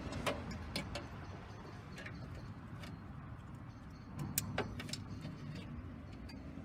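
Scattered light clicks and taps of plastic electrical connectors being handled and plugged together, over a low steady hum.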